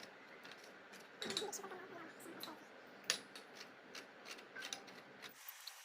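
Scattered light clicks and clinks of trampoline frame and net parts being handled and fitted together, the loudest a sharp click about three seconds in.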